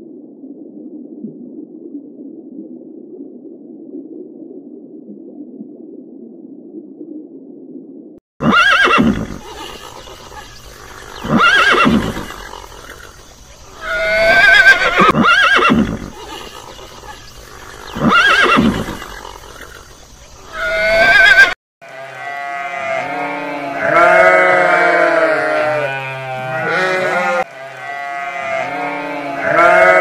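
A steady low hum, then from about eight seconds in, horses neighing five times, about three seconds apart. From about 22 seconds in, a flock of sheep bleats over one another.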